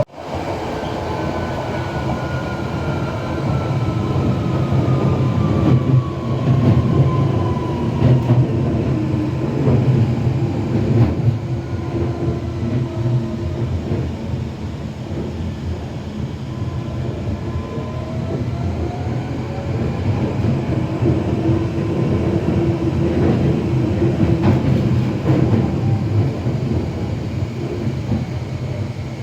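Waterloo & City line tube train running through the tunnel, a steady rumble of wheels on rail. A motor whine falls in pitch over the first several seconds and another rises about two-thirds of the way through.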